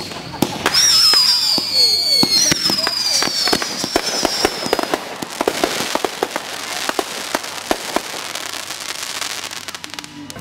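Consumer fireworks going off: two long whistles falling slowly in pitch in the first few seconds, over a run of sharp pops and crackling that grows dense and then thins out and quietens toward the end.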